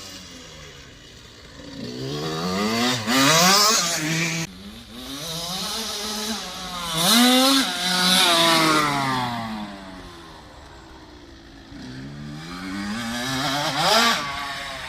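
Motocross bike engine revving hard as it is ridden around a dirt track: three surges of throttle, about two seconds in, about six seconds in, and near the end, each climbing in pitch and then dropping away. The first surge cuts off sharply.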